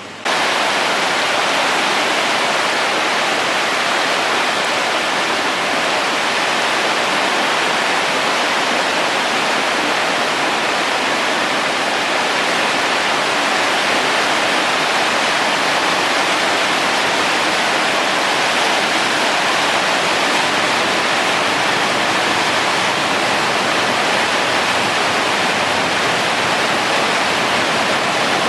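Floodwater of the typhoon-swollen Kinokawa river rushing with a loud, steady noise that comes in suddenly at the start.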